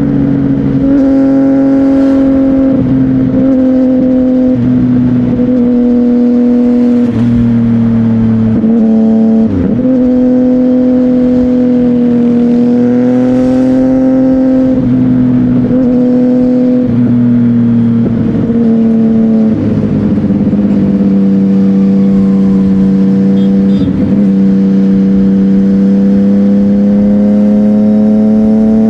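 CFMOTO 675NK inline-three engine through a Burnout titanium exhaust, running under way at fairly steady revs. Its pitch sags slowly through the middle and rises again near the end, with a few brief dips along the way.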